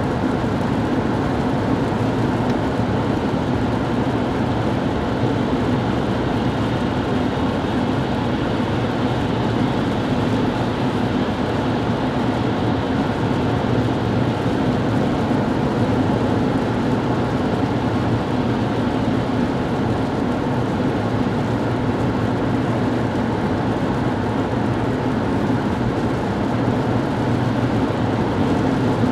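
Steady cabin noise of a car driving at highway speed: an even rush of tyres on the road with a constant low hum from the engine and drivetrain.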